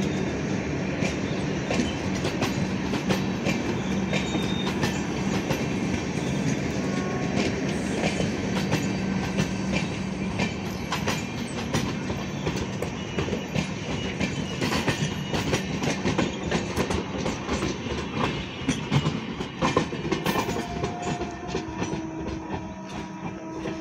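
Tejas Express passenger coaches rolling past on the track, a steady rumble with wheels clicking over the rail joints, growing quieter near the end as the power car at the tail draws away.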